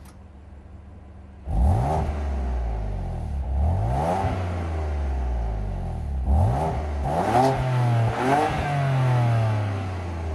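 BMW F80 M3's twin-turbo straight-six idling, then revved about five times in quick blips from about a second and a half in, the highest rev near 6,000 rpm, settling back toward idle near the end. The exhaust is in Efficient mode, its quietest and most muted setting.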